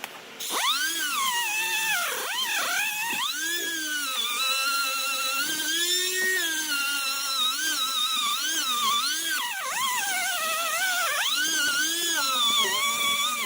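Air-powered 6-inch dual-action sander running on fiberglass tabbing edges, its whine rising and falling in pitch as the pad is pressed on and eased off. It starts about half a second in and stops near the end.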